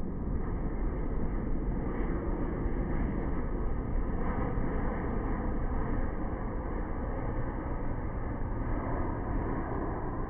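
Steady noise of a jet airliner, a dense rumble with no distinct events.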